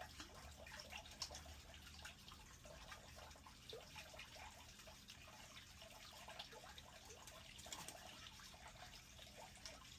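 Near silence with faint trickling and dripping water, scattered small drips and ticks over a low hiss.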